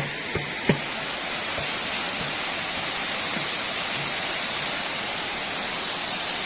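Waterfall rushing steadily, with a couple of light knocks in the first second.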